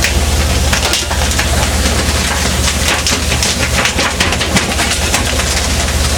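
Fishing boat's engine running with a steady low drone, with irregular clicks and rushing noise over it.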